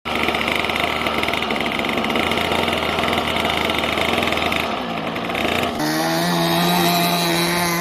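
O.S. 55 two-stroke glow engine of an RC trainer airplane running: a rough buzzing note, which changes abruptly about six seconds in to a smoother, higher, steady whine that rises a little.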